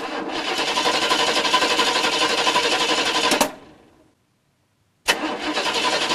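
A car engine running loud and rough, fading out about three and a half seconds in, then starting again after about a second of silence.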